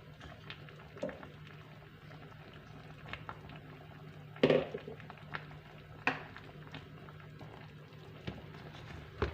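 Chicken curry bubbling in a pot on the stove, over a steady low hum, with a few sharp knocks of a utensil on the pot, the loudest about four and a half seconds in.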